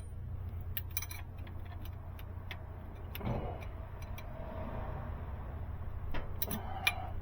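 Scattered light metallic clicks and taps of hand tools as a valve adjusting screw and its locknut are tightened and the lash is checked with a feeler gauge, over a steady low hum.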